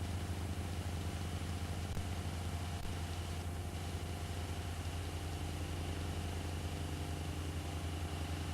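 A steady low mechanical hum with several fixed tones, even and unchanging throughout.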